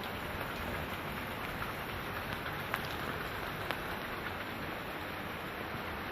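Steady heavy rain falling, an even hiss, with a few sharp drops or drips striking a hard surface, the clearest at about three and four seconds in.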